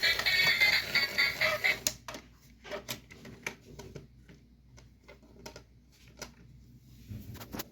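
Background music that stops about two seconds in, followed by scattered light clicks and taps of plastic building-brick pieces being handled.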